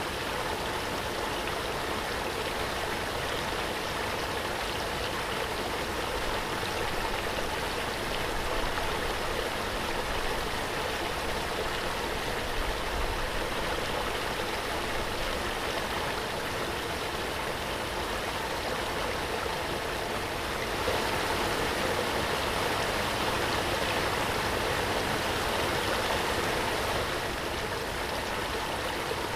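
Waterfall: a steady rush of falling water, swelling a little louder about two-thirds of the way through.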